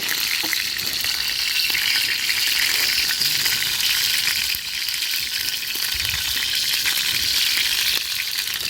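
Chicken cartilage sizzling as it grills over a campfire: a steady hiss flecked with fine crackles.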